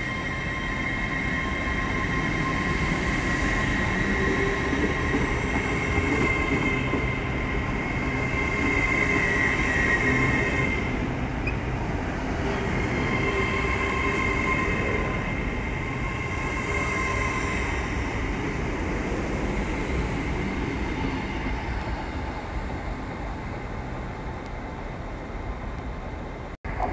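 TransPennine Express Class 802 train moving slowly past along the platform: a continuous rumble with a steady high-pitched whine that swells and fades.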